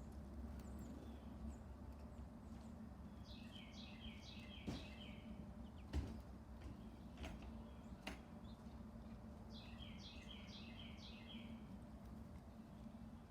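Northern cardinal singing two phrases of rapidly repeated down-slurred whistled notes, a few seconds apart. A steady low hum runs underneath, with a few sharp clicks between the phrases.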